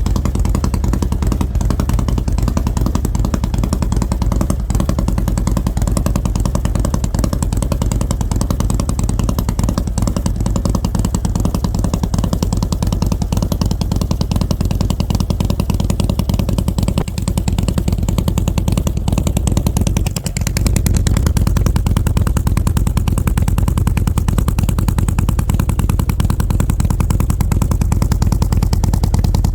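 Harley-Davidson Road Glide's Milwaukee-Eight V-twin, fitted with an S&S 475 camshaft, idling after a cold start with a steady low rumble. About two-thirds through, the sound dips briefly, then carries on a little louder.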